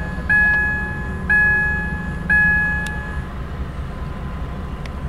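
Freight train led by Union Pacific diesel locomotives rolling past, a steady low rumble, while a bell rings three times about a second apart, each strike dying away, and then stops a little after three seconds in.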